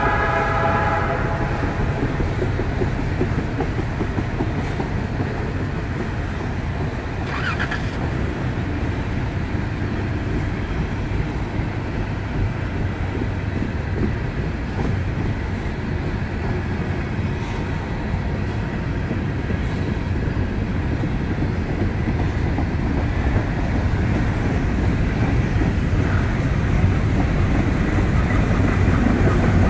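Empty coal hopper cars of a freight train rolling past, a steady rumble and clatter of wheels on rail. A distant locomotive horn chord dies away in the first second or two.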